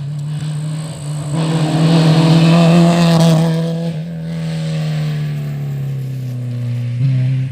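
Rally car passing at speed on a stage: the engine grows louder to a peak about two to three seconds in, its pitch drops as it goes by, then it fades away.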